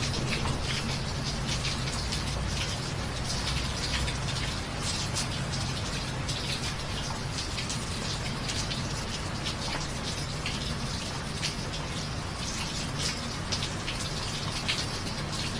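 Steady rain with many distinct drops falling close by, and a low rumble of thunder dying away over the first few seconds.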